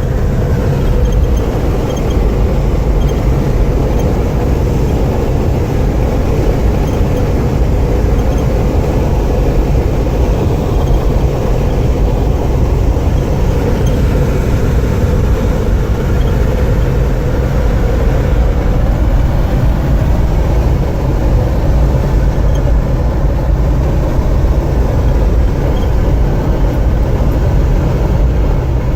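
Loud, steady low rumble of a vehicle moving at speed, with no let-up or change.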